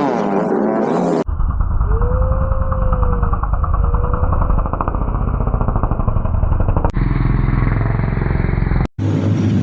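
Off-road motorcycle engines revving and running hard, in short clips joined by abrupt cuts about a second in, about seven seconds in and near the end.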